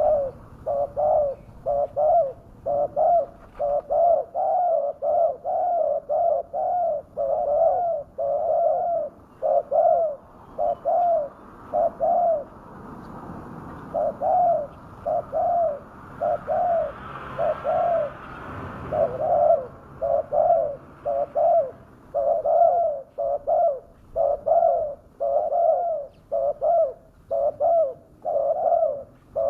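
Spotted dove (tekukur) cooing in a fast, steady string of short coos, about two a second, used as a lure call to draw wild doves down. The string pauses briefly about twelve seconds in, and a rush of noise rises under it around seventeen to nineteen seconds.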